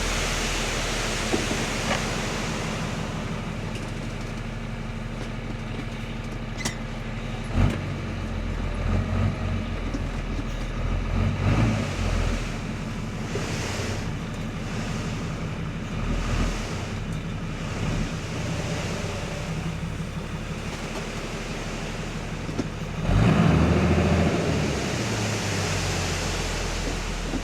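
Tipper truck's diesel engine running steadily, with a few short louder moments and a stronger rise in engine sound about 23 seconds in, while the body is raised to tip the load.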